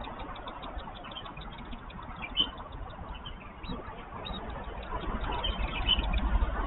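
Steady low rumble of city traffic, growing louder near the end, with scattered short high bird chirps over it.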